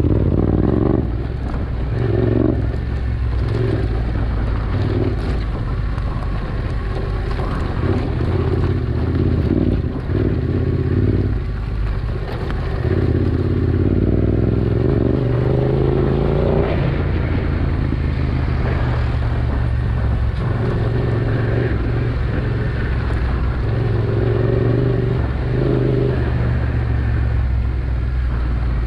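Adventure motorcycle's engine running under way on a rough trail, its pitch stepping up and down several times as the throttle and gears change.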